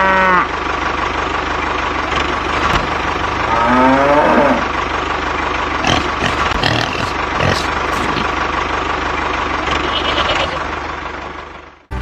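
A cow mooing twice, one call at the start and a longer one about four seconds in, over a steady mechanical hum with scattered knocks. The sound fades out just before the end.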